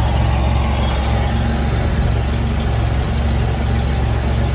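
2000 Chevrolet Camaro engine idling steadily, its exhaust heard up close, with an exhaust leak that the owner traces to the exhaust cutout.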